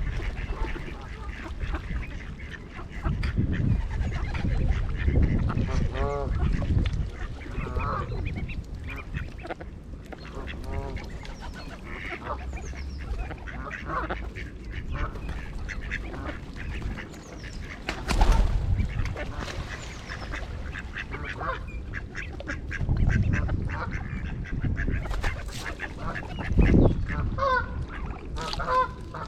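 Canada geese honking and ducks calling on the water, with repeated irregular calls, mixed with stretches of low rumbling noise and a few sharp knocks or splashes.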